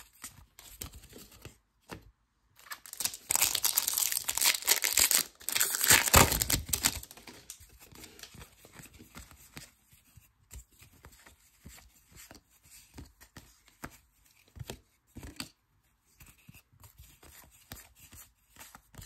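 Foil trading-card pack being torn open with loud crinkling and tearing for a few seconds, followed by quieter rustling and soft clicks of cards being handled.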